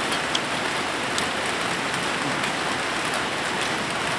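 Steady rain falling, an even hiss throughout, with a few faint ticks.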